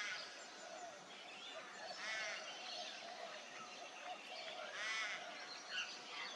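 Birds chirping and twittering, with three louder, harsher calls: one near the start, one about two seconds in and one about five seconds in.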